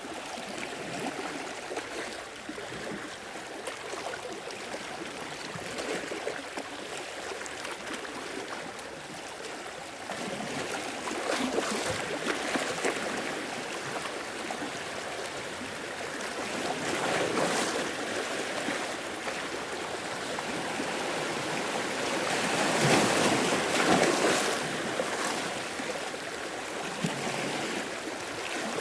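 Sea waves washing in and breaking, several swells, the loudest about two thirds of the way through.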